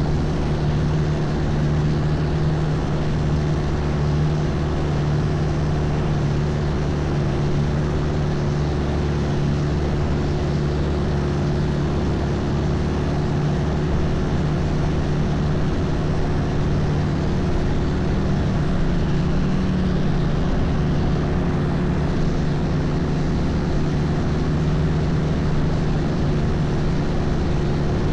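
Longtail boat's engine running steadily under way: a constant drone that holds its pitch throughout, with a broad hiss over it.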